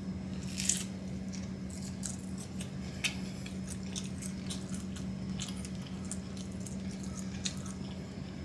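Close-up mouth sounds of a person chewing a bite of pizza: scattered soft, wet clicks and squishes, over a steady low hum.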